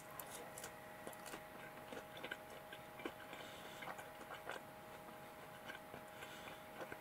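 Faint chewing of a thin, sliced-open Chicken McNugget: quiet, irregular small mouth clicks.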